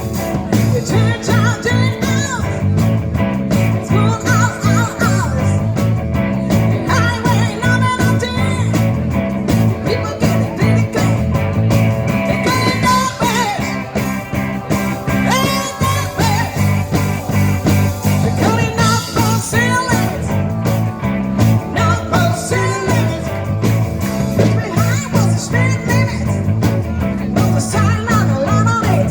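A rock band playing live: guitars over bass and drums with a steady beat, and a bending melody line on top.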